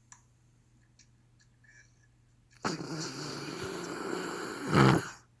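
Dog snoring: after a quiet pause, one long, loud snore starts about halfway in, swells to its loudest just before it stops near the end.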